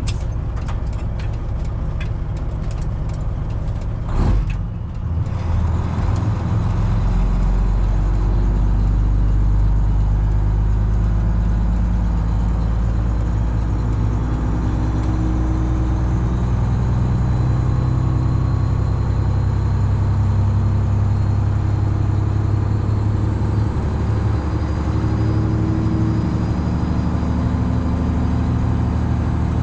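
Semi truck's Detroit Diesel 12.7-litre engine running while the truck drives, a steady low drone that shifts slightly in pitch. A single knock about four seconds in, after which the drone grows louder.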